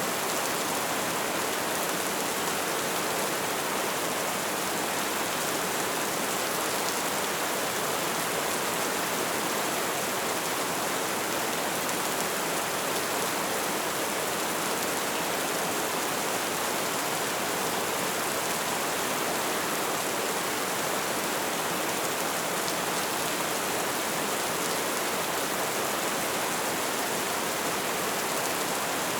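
Light rain falling in a steady, even hiss, with no single drops or gusts standing out.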